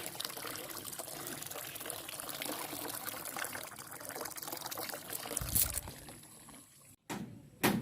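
Water running and trickling steadily, splashing as it pours. About five and a half seconds in the water gives way to a brief low rumble.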